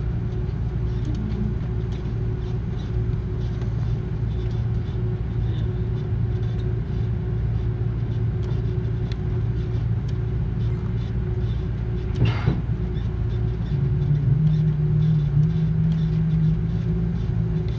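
Cabin noise of an Airbus A330 taxiing after landing: a steady low rumble from the engines and the rolling wheels, with a brief knock about two-thirds of the way through. A slightly higher engine hum comes in shortly after the knock and holds to the end.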